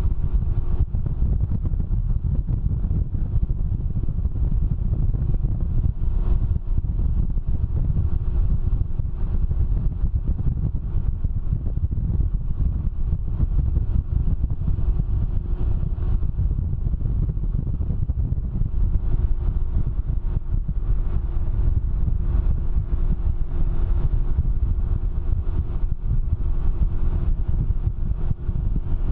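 Steady wind rumble buffeting the microphone on a moving Can-Am Ryker three-wheeled motorcycle, with the engine's steady hum faintly beneath it.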